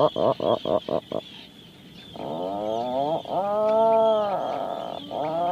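An animal calling: a run of quick, rising pitched calls for about the first second, a pause, then one long drawn-out call, and a short call near the end.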